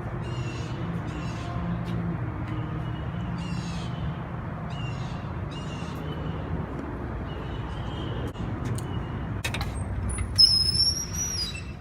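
City street ambience: a steady low traffic hum with repeated short bird calls over it, and a loud high whistling tone near the end.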